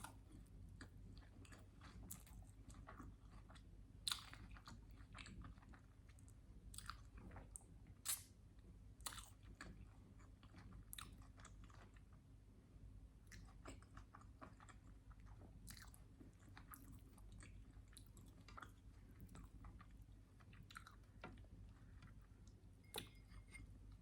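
Close-miked chewing and biting of a syrup-covered sandwich: irregular wet mouth clicks and smacks with some crunching, a couple of sharper, louder ones about four and eight seconds in.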